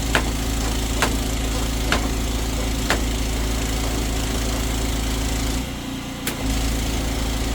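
High-pressure drain jetter's engine running steadily while the jet works on a root blockage, with a sharp tick about once a second for the first few seconds and a short dip in the engine sound a little after halfway.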